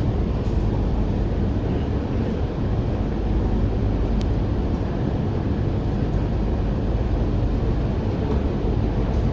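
Steady low rumble inside an MTR Island Line Q-Train carriage standing at a station, with the train's air-conditioning and equipment running.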